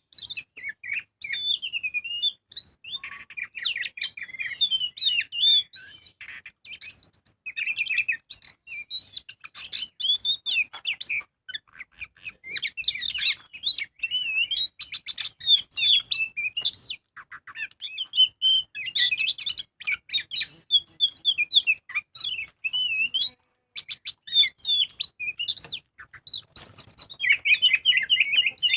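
Oriental magpie-robin (kacer) in full song: a fast, unbroken run of varied whistled notes and slurs, pausing only briefly twice.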